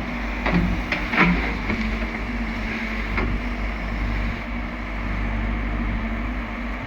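Heavy diesel engine of the earthmoving machinery running steadily, with a few short knocks and clanks in the first seconds and another around three seconds in.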